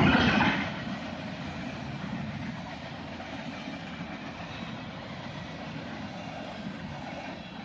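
CSX freight cars rolling past on the rails: a steady rumble and clatter of wheels and trucks, louder for the first moment and then settling to an even, quieter run.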